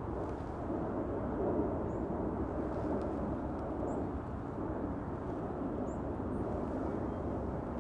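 Steady low outdoor rumble, with a faint short high bird chirp about every two seconds.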